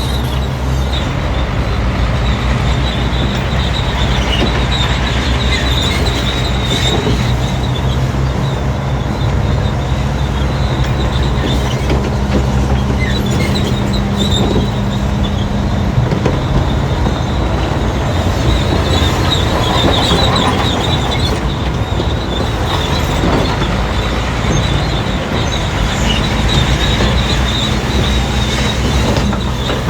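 Crawler bulldozer's diesel engine running under load, with its steel tracks clanking and a steady high squeal from the track running gear as it pushes fill.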